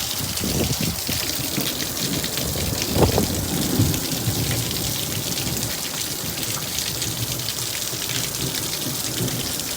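Heavy rain falling steadily, a dense hiss of drops on surfaces, with a couple of short louder thumps about three and four seconds in.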